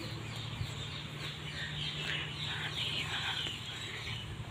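Birds chirping: many short chirps, each dropping in pitch, follow one another quickly, over a low steady hum.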